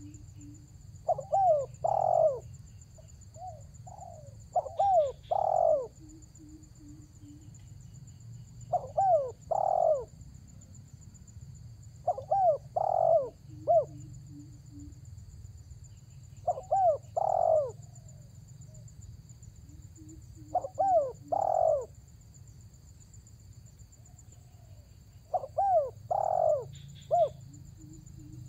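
Spotted dove (tekukur) cooing its repeated territorial call: a short phrase of a few cooing notes, given seven times about four seconds apart.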